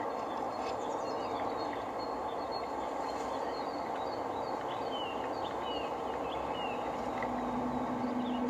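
Small birds chirping in a quick series of short high notes over a steady rushing noise. A low steady hum comes in near the end.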